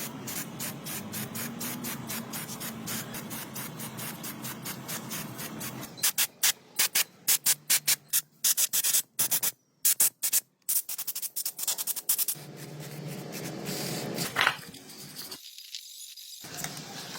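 Hand work on motorcycle parts: rapid, even rubbing strokes, then a run of short loud hissing bursts, a single sharp click and a brief dropout.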